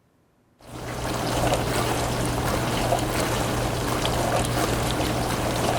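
Dishwasher spray arms whooshing as they spin and spray water around the tub, with a steady low hum underneath. It starts about half a second in and then runs evenly.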